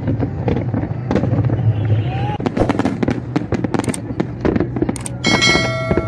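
Fireworks going off in rapid succession: a dense run of sharp bangs and crackles. About five seconds in, a held tone with several pitches joins them.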